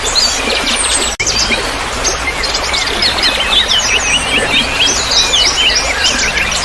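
Many small songbirds chirping and twittering together in a dense chorus of quick high chirps, over a steady hiss of trickling water. The sound cuts out for an instant about a second in.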